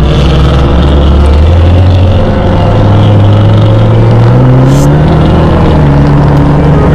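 Ford Mustang EcoBoost's turbocharged four-cylinder engine heard from inside the cabin while driving, its pitch climbing steadily under acceleration from about a second and a half in, then holding steady near the end.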